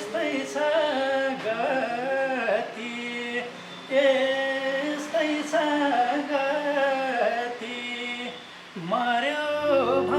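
A man singing a slow melody in long, wavering held notes.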